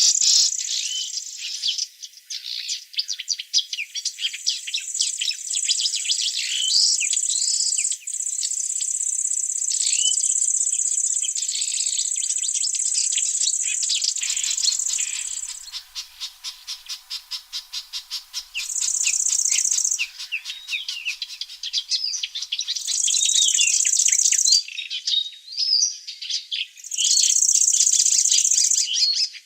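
Small birds chirping and singing in many short calls, over a steady high-pitched insect buzz that cuts out and comes back several times.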